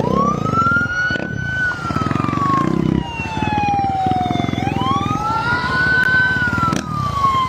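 Vehicle siren wailing: it rises quickly, falls slowly, then rises and falls again about halfway through. Under it a motorcycle engine runs with a steady low pulse.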